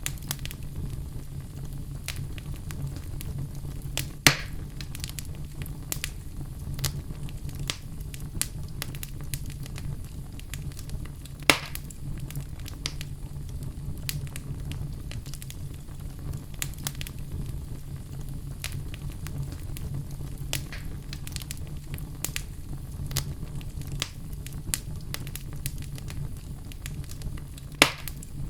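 Log fire crackling steadily, with a dense run of small crackles over a low rumble and three louder pops: about four seconds in, near the middle, and near the end.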